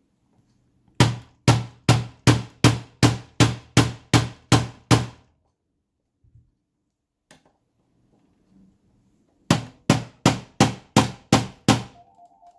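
Rapid hammer blows on a stuck projector part, about two to three strikes a second. A run of about eleven, a pause of some four seconds, then about eight more.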